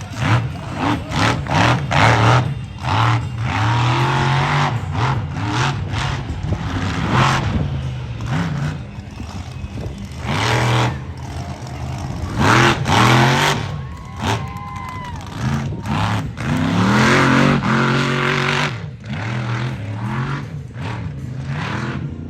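Motorsport engine revving hard in repeated bursts, its pitch climbing and falling again every few seconds, with the loudest runs near the start and around the middle.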